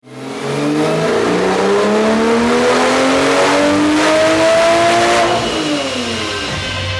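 Porsche 997 911 Turbo's twin-turbo flat-six accelerating hard, its pitch climbing steadily for about four seconds, then falling away as the throttle closes near the end.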